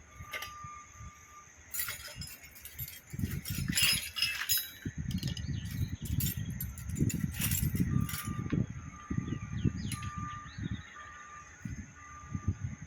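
Metal pump parts clinking and knocking together as they are handled, with light scattered clinks and repeated low dull thuds from about three seconds in.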